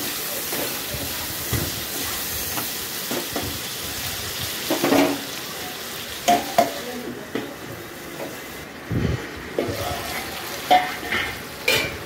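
Chopped tomatoes, onions and green chillies sizzling in hot oil in a pan. A metal slotted spatula scrapes and knocks against the pan now and then as the mix is stirred and mashed. The sizzle thins for a few seconds in the middle.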